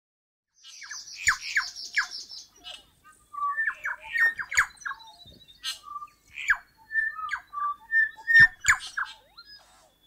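Bird song: a fast high trill about half a second in, three quick falling notes, then a varied run of short clear whistled notes mixed with sharp clicks and harsh squawky notes.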